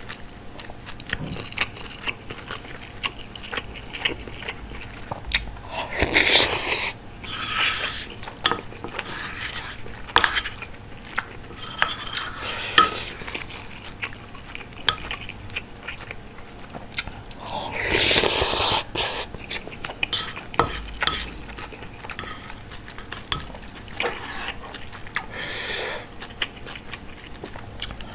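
Close-miked chewing of bulgogi hot pot, with spoon and chopsticks clicking against the dishes. Two louder spells of eating sound come about six seconds in and again about eighteen seconds in.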